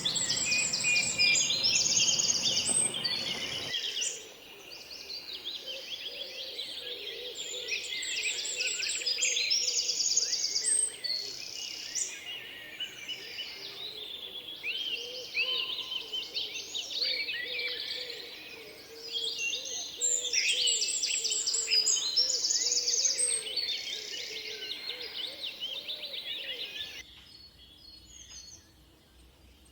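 A dense chorus of many birds chirping and trilling, full of fast, buzzy repeated trills and short rising notes, with a lower call repeating underneath. The chorus drops away to a few faint calls near the end.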